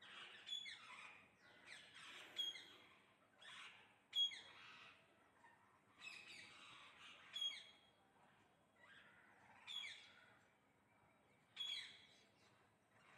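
A flock of parrots calling while feeding: faint short calls with falling notes, coming in clusters every second or two.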